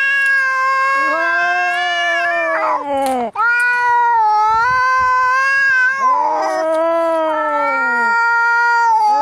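Two cats yowling at each other in a fight standoff: long, drawn-out caterwauls that overlap and waver in pitch. The yowls break off briefly about three seconds in and again about six seconds in, then start again.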